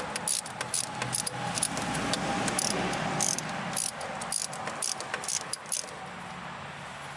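A hand ratchet clicking in quick, irregular runs as bolts are run down on the engine, with a light metallic jangle of tools. The clicking stops about six seconds in.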